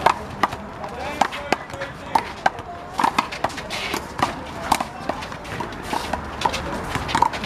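Rubber handball slapped by hand and rebounding off the wall and pavement in a one-wall handball rally: an irregular run of sharp slaps, several a second, with voices in the background.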